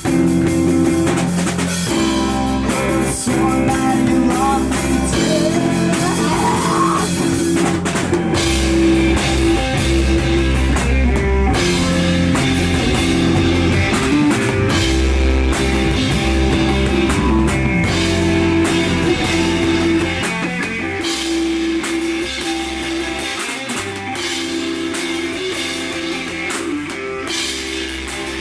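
Live rock band playing with drum kit, electric guitar and bass guitar. About two-thirds of the way through, the bass and kick drum drop out and the music gets quieter.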